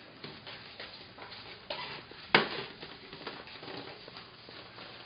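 Scattered light taps and rustles in a small room, with one sharp knock about halfway through.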